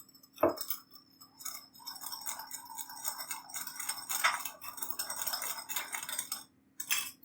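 A spoon stirring a sugar, soy sauce, mirin and sake mixture in a small bowl: one click, then a steady run of quick, light clinks and scrapes against the bowl as the sugar is stirred in.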